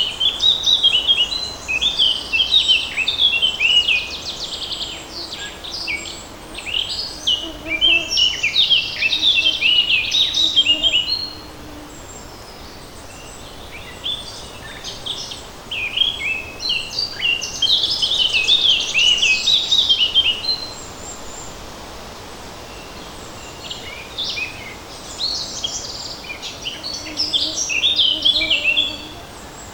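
Songbirds singing in a forest: rapid, high chirping phrases in three long bouts with short pauses between them, over a faint steady hiss.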